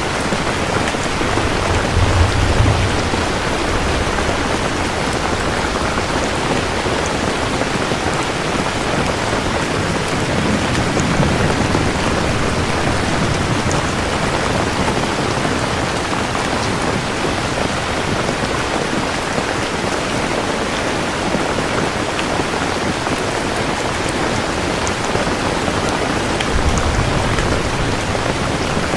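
Steady heavy rainfall falling on a surface, with low rumbles of thunder about two seconds in, around ten seconds in, and again near the end.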